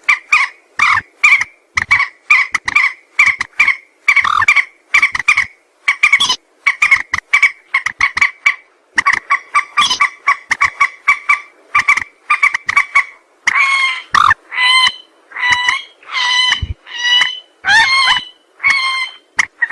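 Mandar sawah, a rail, calling repeatedly in quick stuttering runs of short, loud clucking notes. About two-thirds of the way through, the call changes to longer, clearer notes spaced about half a second apart.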